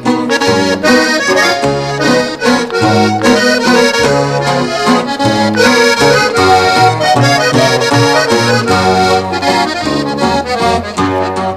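Instrumental passage of norteño music: a button accordion plays the melody in quick runs over a bass line and rhythm accompaniment, with no singing.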